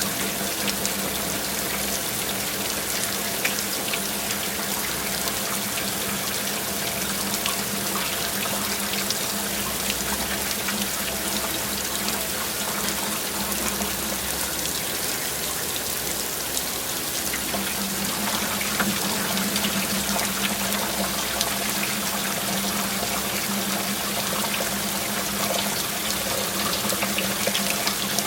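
Steady rushing of water in a heavy rainstorm, a dense even hiss with many fine patters, over a faint steady low hum that drops away for a few seconds around the middle.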